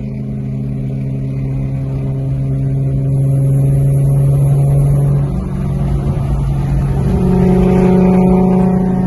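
Car engine running at steady revs and growing louder, its note dipping and then settling higher about five seconds in.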